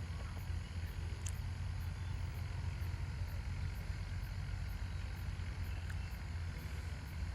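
Steady low hum with faint background noise, and a faint tick about a second in.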